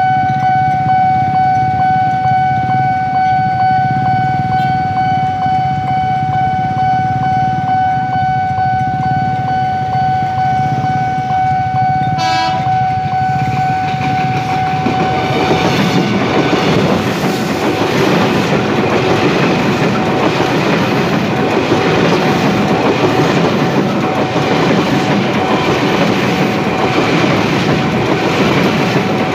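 A level-crossing warning signal sounds one steady tone while an ex-Tokyu 8000 series electric train approaches. The train gives a brief horn toot about twelve seconds in. From about fifteen seconds the train runs through the crossing close by with loud rumble and wheel clatter.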